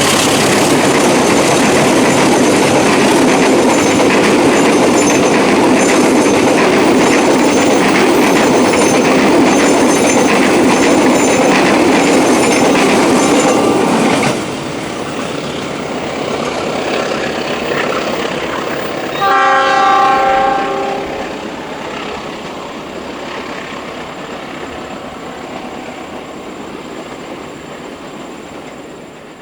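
A train passing close by, with loud wheel and carriage noise and a clickety-clack of wheels over rail joints that drops off suddenly about halfway through. A few seconds later a train horn sounds one blast of about a second and a half, then the train fades away.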